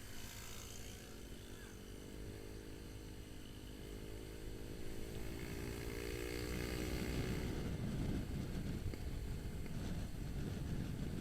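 Motorcycle engine running, its pitch rising gradually over the first several seconds. From about seven seconds in, a louder, rougher low rumble of wind and road noise takes over.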